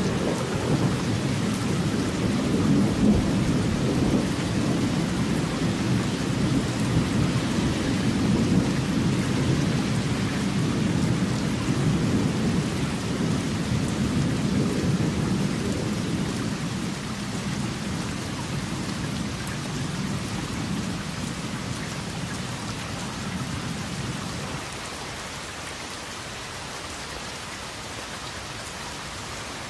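Steady heavy rain with a long rolling rumble of thunder underneath, which dies away over the second half, leaving the rain alone.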